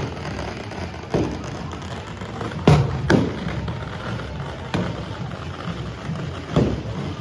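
Firecracker bangers going off in the street at irregular intervals: about five sharp bangs, each echoing briefly, the loudest a little under three seconds in, over a steady crowd din.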